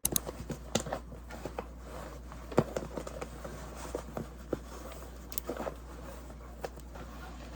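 Irregular light clicks and taps, the sharpest about two and a half seconds in, over a steady low hum.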